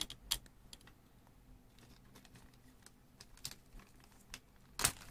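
Light, scattered clicks and rustles of a small clear plastic bag of replacement thermal fuses being handled, with a few louder taps about a second in and near the end.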